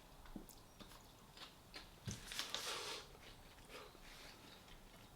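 A person biting into and chewing a wrap close to the microphone: soft wet mouth clicks, with a louder crunchy, rustling bite about two seconds in.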